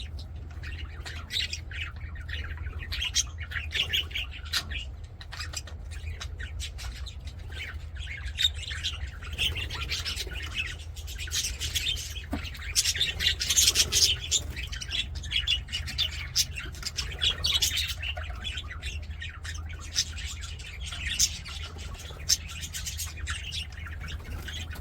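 Budgerigars chattering and warbling in a continuous run of quick chirps and squawks, busiest about halfway through, over a steady low hum.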